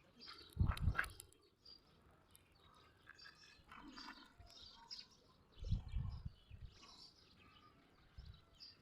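Small birds chirping faintly, with two brief clusters of low bumps, about half a second in and again around six seconds in.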